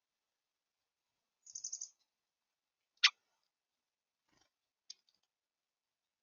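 Small birds calling faintly: a quick run of about five high chips about one and a half seconds in. A single sharp click comes about three seconds in, and two faint ticks follow a couple of seconds later.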